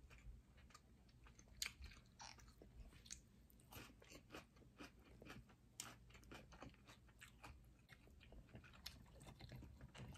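Faint chewing of lobster and salmon: irregular wet mouth clicks and smacks, several a second.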